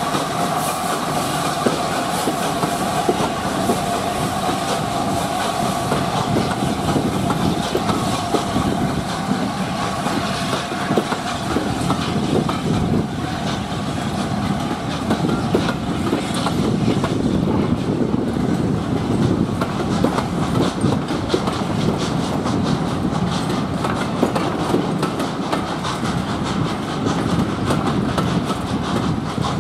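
Train of passenger coaches rolling steadily past behind an A4 Pacific steam locomotive pulling away from the station, its wheels clicking over the rail joints. In the first ten seconds or so a steady high whine is heard, then fades away.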